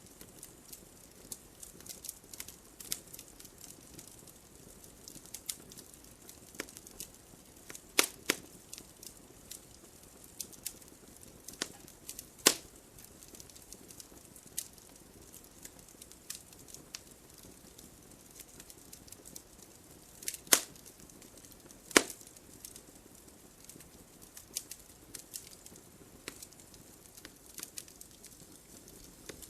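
Wood fire in a fireplace crackling: a steady scatter of small snaps and pops over a faint hiss, with a few much louder sharp pops standing out, two near the middle and two later on.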